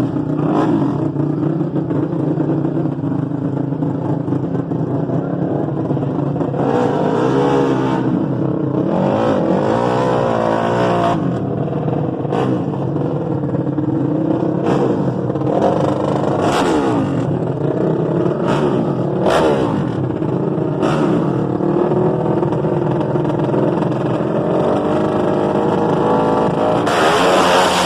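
450cc dirt bike engines running and revving, the pitch wavering up and down, with sharp cracks every second or two. Near the end the sound swells louder and brighter.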